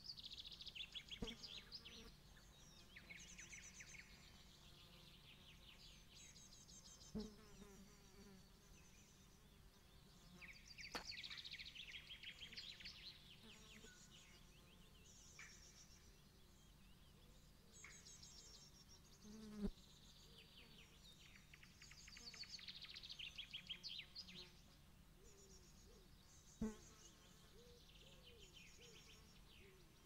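Faint outdoor ambience of small birds singing fast, high trills over and over, with a low steady hum and a few sharp knocks scattered through.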